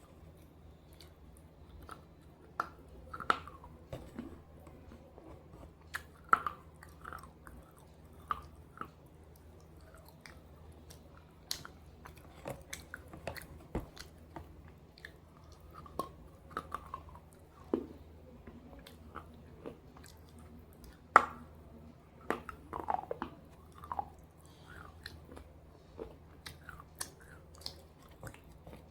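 Close-up biting and chewing of slate pieces dipped in red gravy: irregular sharp cracks and crunches, a few every couple of seconds, with the loudest crack about 21 seconds in.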